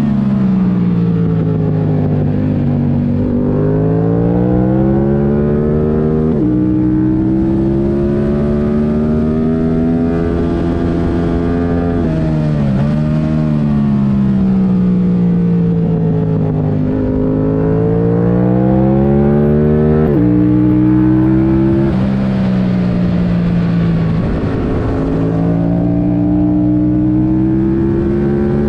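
A 2022 Yamaha R7's 689 cc parallel-twin engine, running with its airbox removed through a MIVV Delta Race exhaust, being ridden hard on track. The revs climb and fall over several seconds at a time, with sudden jumps in pitch at the gear changes.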